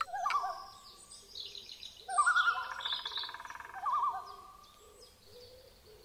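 Birdsong: a wavering, warbling call in two bouts over higher chirping, dying away in the last second or two.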